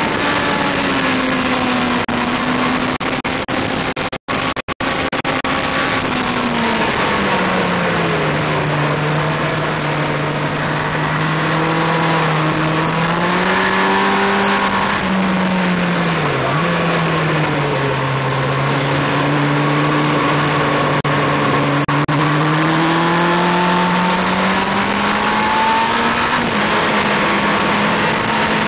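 Yamaha R1 inline-four engine running hard at speed, under a heavy rush of wind noise. The engine note falls as the bike slows a few seconds in, dips sharply once midway, then climbs again near the end; the sound cuts out briefly twice about four seconds in.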